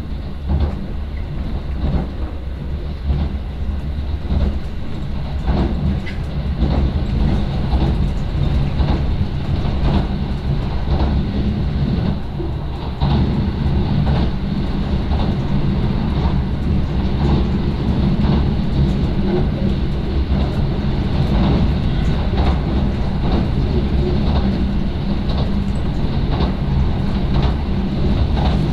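Inside the carriage of an electric commuter train running at speed: a steady low rumble with wheels clicking over rail joints. It drops a little in level about twelve seconds in.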